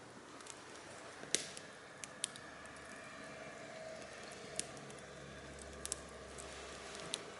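Fire burning in an irori hearth: a few sharp, scattered crackles and pops over a faint steady hiss, the loudest pop about a second in.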